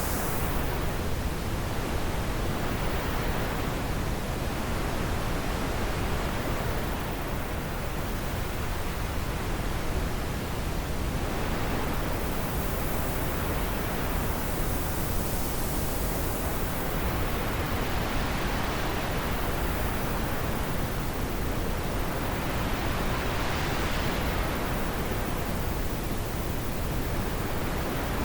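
Wind blowing steadily as a dense, even hiss, its upper range swelling and easing every few seconds in soft gusts.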